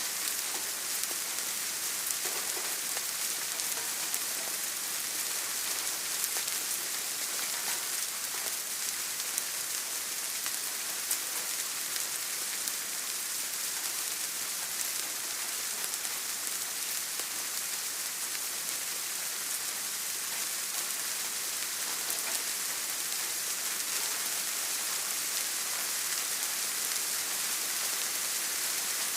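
Steady rain falling on a surface: a dense, even hiss with scattered drop ticks.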